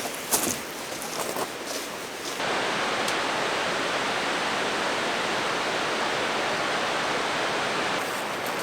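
A few light clicks and rustles, then from about two seconds in a steady, even rushing of a mountain stream, which stops shortly before the end.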